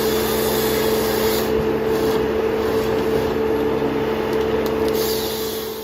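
Ponsse forestry harvester working a log: a loud, steady mechanical whine with hiss from its engine, hydraulics and harvester head, fading near the end.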